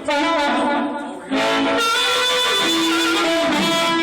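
Amplified blues harmonica playing long held notes through an amp, with a bent note sliding down near the end.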